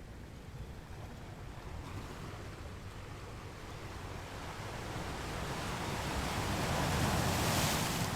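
Ocean waves breaking on a beach: a low steady wash that builds over several seconds into a louder hissing surge near the end, then begins to fade.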